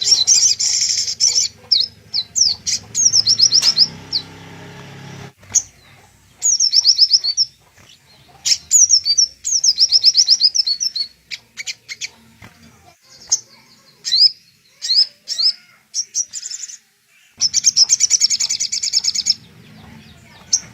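Little spiderhunter (sogok ontong) song: bursts of fast, high, rapidly repeated chirps and trills with short pauses between phrases, played as master song material for training caged sunbirds.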